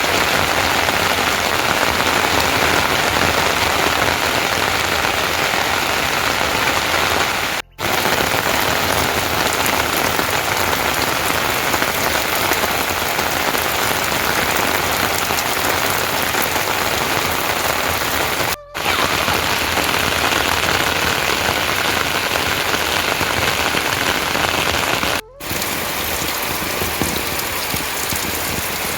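Heavy rain falling as a dense, steady hiss. It breaks off for an instant three times and resumes each time, a little quieter after the last break.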